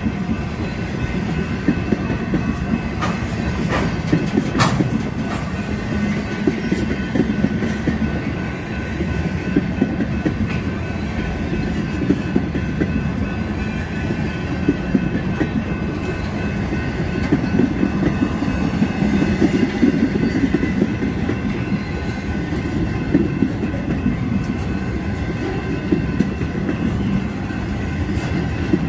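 Empty intermodal flatcars of a long freight train rolling past: a steady wheel-on-rail rumble with clickety-clack and scattered sharp clicks from the wheels.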